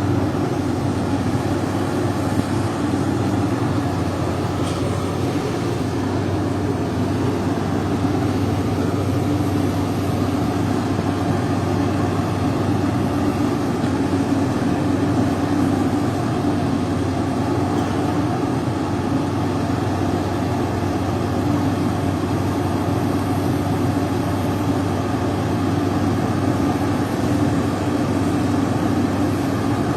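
Heavy machinery engine running steadily, a constant low drone with no revving or breaks.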